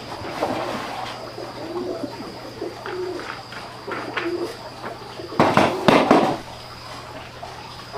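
A bird cooing, a few short low calls in the first half, then a loud clatter about five and a half seconds in.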